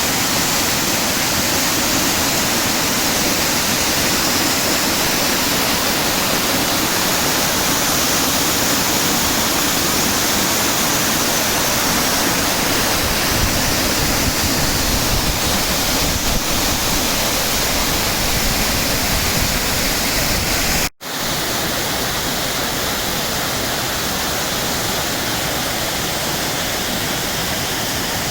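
Waterfall: a steady, loud rush of falling water. It breaks off for an instant about three-quarters of the way through, then carries on slightly quieter.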